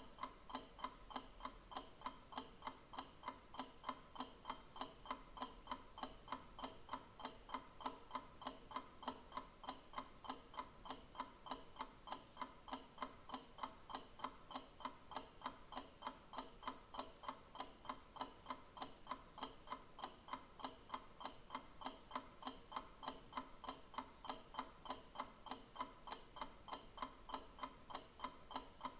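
A clock ticking steadily, with sharp, evenly spaced ticks in an unbroken rhythm.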